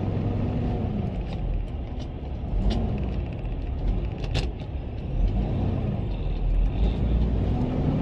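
Tractor-trailer diesel engine heard from inside the cab as the truck pulls away, its revs rising and falling several times over a low rumble, with a few sharp clicks and knocks.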